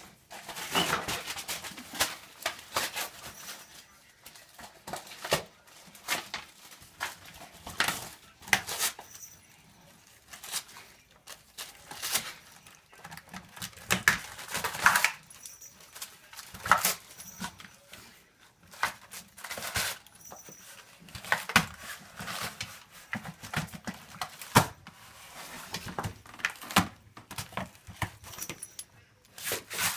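A dog tearing and crinkling gift wrapping paper with its mouth, in irregular bursts of ripping and rustling with short pauses between.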